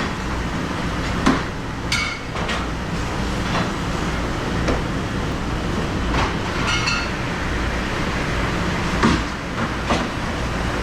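Dishes and utensils clinking and knocking every second or so, a few with a brief metallic ring, over the steady low hum of kitchen machinery.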